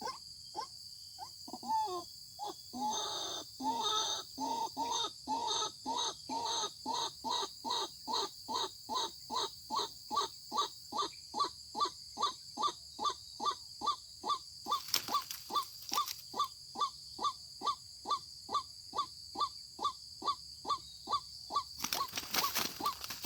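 White-breasted waterhen calling a long, steady series of short repeated notes, about two to three a second, with a rougher chattering stretch about two to four seconds in.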